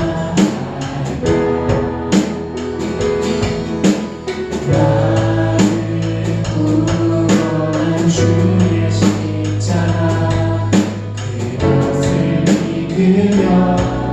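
Live church praise band playing a slow worship song: a drum kit keeps a steady beat over sustained bass notes and chords.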